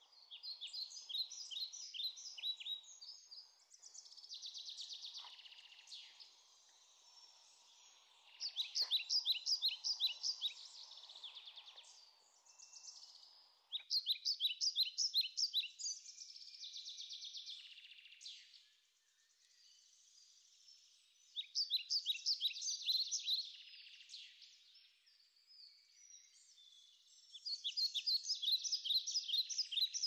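A songbird singing: loud phrases of rapid, high, repeated notes, each lasting two to three seconds and coming about every six seconds, with softer buzzy trills between them. A faint low hum lies underneath and stops about halfway through.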